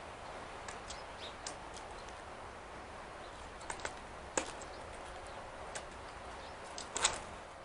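A few scattered sharp taps and clicks over a steady hiss, the loudest a quick double tap near the end: a California scrub jay pecking at and picking through in-shell peanuts on a wooden porch.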